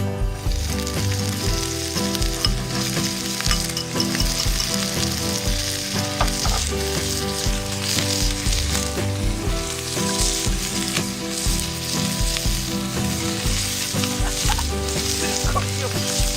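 Oil sizzling and frying in a pan over a wood fire, with dried red chillies in it; the sizzle starts at the very beginning and keeps on steadily.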